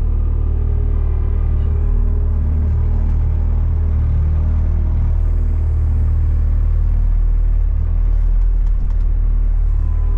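Skid steer engine running steadily under load as the machine is driven, a loud low rumble.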